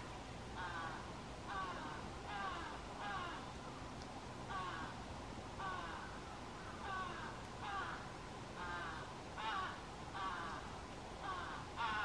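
A bird giving a long series of short, harsh calls, each falling in pitch, about one a second.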